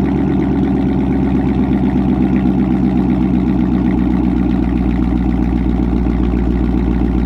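Dodge Charger engine idling steadily after a cold start, on its stock exhaust before headers and a tune.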